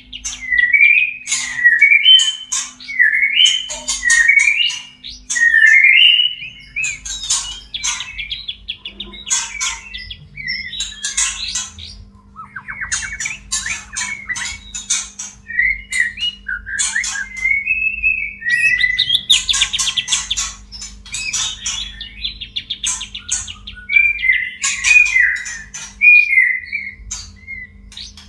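White-rumped shama (murai batu) courtship song: loud repeated whistled phrases that swoop up and down, mixed with sharp clicking and rattling notes. A faint steady low hum runs underneath.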